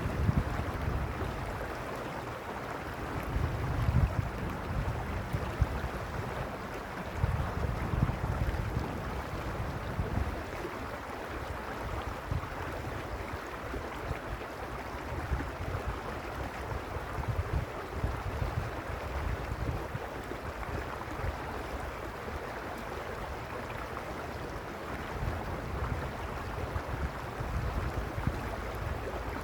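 Stream water rushing steadily over its bed, with a low rumble that swells and fades every few seconds.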